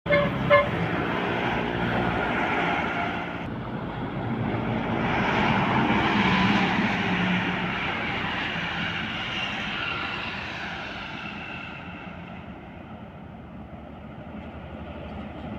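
Diesel engine of a 220 PS Mitsubishi Fuso truck going past: the engine grows louder to a peak about six seconds in, then fades away. Two short high tones sound at the very start.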